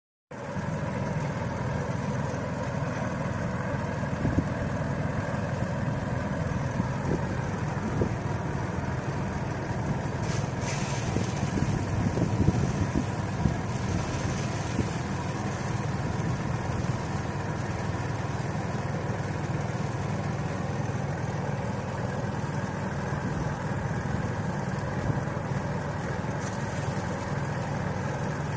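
Motorized rice thresher running steadily, with a constant engine drone and many small rattling clicks.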